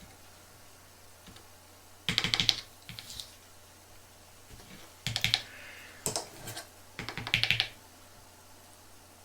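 Small hard plastic items being handled: four short bursts of rapid clicking and crackling, the first about two seconds in and three more close together in the second half.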